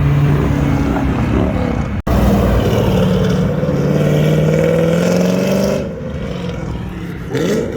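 Loud car engine accelerating hard, its pitch climbing steadily for a few seconds, then easing off and fading.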